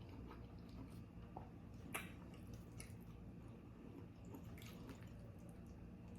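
Faint wet mouth sounds of someone chewing food close to the microphone: a few soft, short clicks and smacks over a low steady hum.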